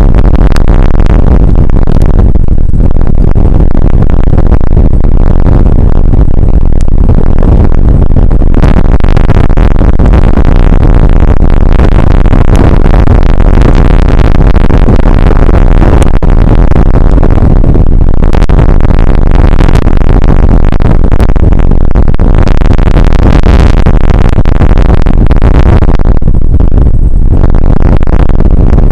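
Rain shower and wind noise picked up by an outdoor weather camera's microphone: a dense, continuous rushing noise, heaviest in the low end and loud enough to distort.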